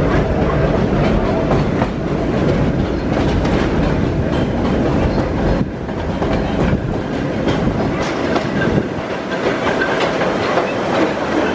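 1903 BMT BU elevated subway car running along the track, heard from on board: a steady rumble of wheels on rail with clicks over the rail joints. The low rumble eases in the last few seconds.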